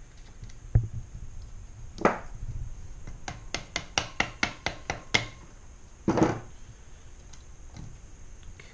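Hand work on a key machine's motor mount: a sharp knock, a louder clunk, then a quick run of about ten clicks or taps, followed by a scraping rattle.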